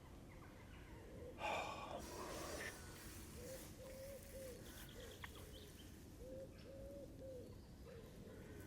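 A pigeon cooing in low, repeated phrases, with a short harsh noise about one and a half seconds in.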